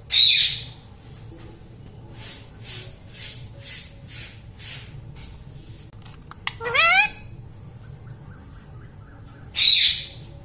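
Indian ringneck parrot calling. A harsh squawk at the start is followed by a run of soft repeated chatter notes, about two a second. A rising whistled call comes a little past the middle, and another squawk near the end.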